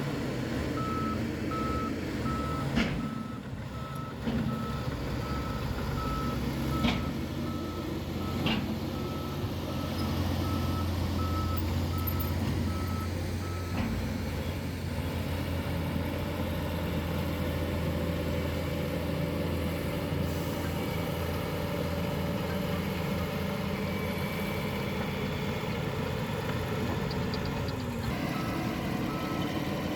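A heavy construction vehicle's backup alarm beeps at about one beep a second over its engine, which runs steadily. The beeping stops about halfway through and starts again near the end. A few sharp clanks come in the first half.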